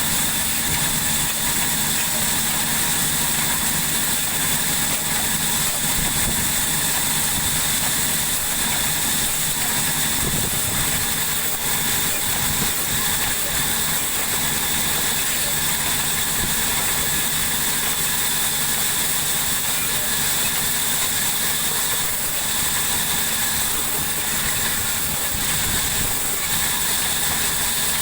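Sawmill machinery running steadily: a constant motor hum under a loud, even high-pitched hiss.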